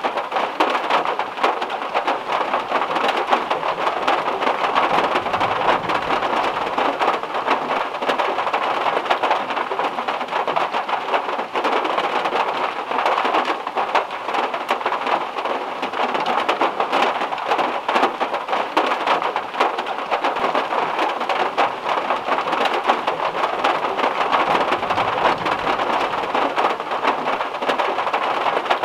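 Heavy rain falling steadily, a dense patter of many drops striking a hard surface.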